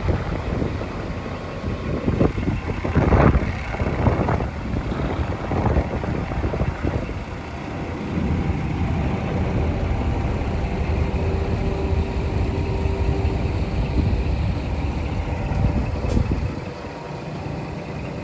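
Scania P380 truck's diesel engine idling, a low rumble that swells unevenly in the first few seconds and then settles to a steady run.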